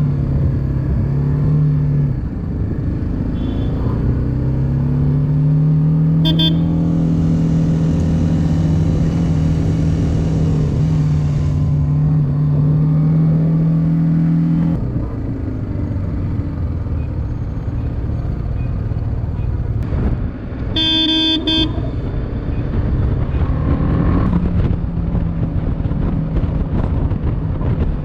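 Motorcycle engine running under way over steady wind and road noise, its pitch rising as it speeds up, held, then dropping about halfway through. A vehicle horn toots briefly about a quarter of the way in and again, a little longer, about three quarters in.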